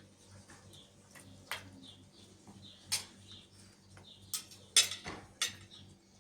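A handful of sharp clinks of hard objects knocking together, the loudest about five seconds in, over faint bird chirping.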